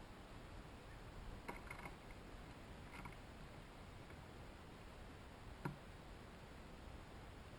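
Near-silent woodland quiet at bird feeders. A few faint short chips come about one and a half and three seconds in, and a single soft knock comes a little past five and a half seconds.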